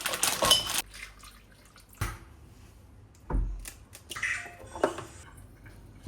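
Kitchen handling sounds: a short rush of water at the start, then a few separate knocks and clinks of dishes.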